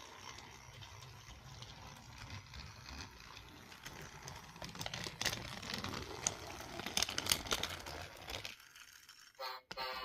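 Small battery motor of a toy engine running on plastic track, a steady low hum with irregular clicks and rattles as it goes, until the hum cuts off suddenly near the end.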